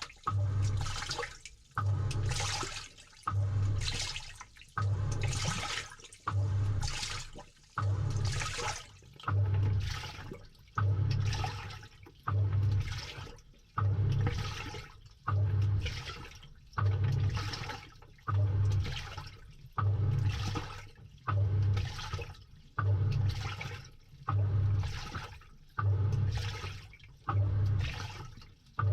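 Samsung 6.5 kg top-load washing machine agitating, heard from inside the drum. Each stroke is a low motor hum with water and clothes sloshing, one about every 1.7 s in a steady back-and-forth rhythm.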